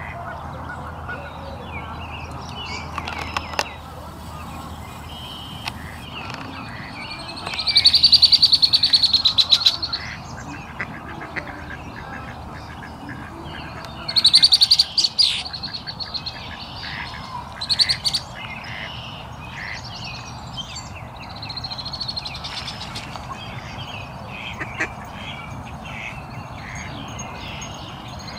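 Birds calling: scattered soft high chirps, broken by a loud rapid high trill lasting about two seconds around eight seconds in, a second about fourteen seconds in, and a shorter one a few seconds later, over a steady outdoor hiss.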